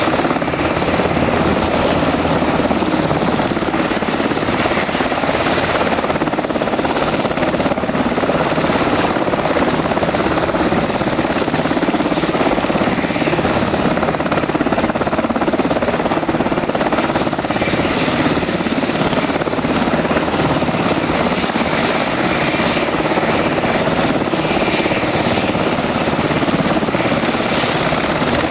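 UH-60A Black Hawk helicopter running steadily at close range, its two turboshaft engines and rotors making a loud, even, unbroken sound with a thin high whine on top.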